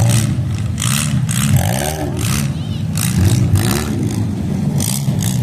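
Demolition derby cars' engines revving, their pitch swinging up and down over and over, with several short, sharp bursts of noise.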